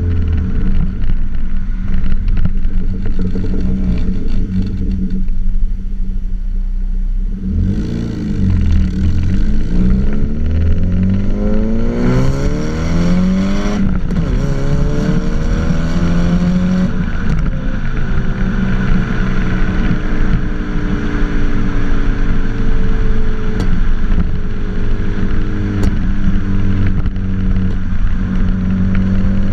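Mazda MX-5 Mk3 1.8 four-cylinder engine with an aftermarket back box and decat pipe. It runs steadily and low at first, rises and falls in pitch as it accelerates through the gears from about eight seconds in, then holds a steady pitch as if cruising.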